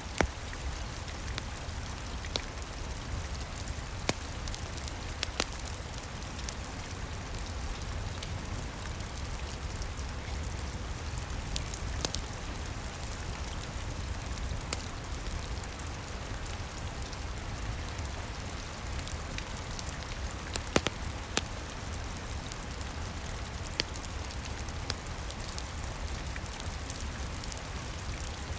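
Steady rain on the roof, an even hiss over a low rumble, with a crackling wood fire: scattered sharp pops every second or two, some louder than the rain.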